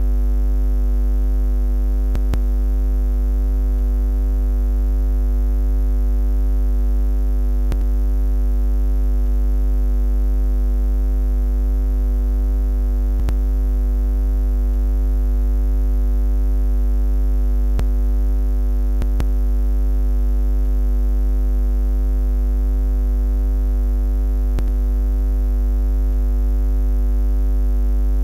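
Steady low electronic buzz: a deep hum with a stack of higher overtones, unchanging in pitch and level.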